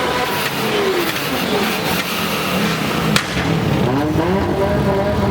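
Car engine revving, its pitch rising and falling several times in quick succession, with a single sharp click about three seconds in.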